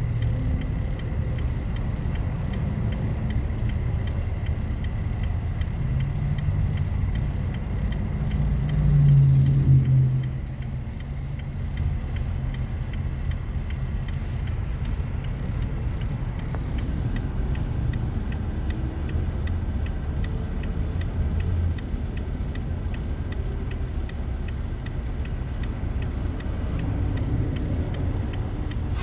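Motor vehicle engine and road rumble running steadily, swelling louder with a low hum about nine seconds in, then settling back.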